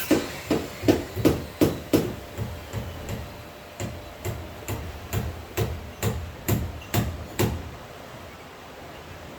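A rapid series of evenly spaced knocks, like hammering, about two to three a second, that stop about three quarters of the way through. A steady wash of background noise runs underneath.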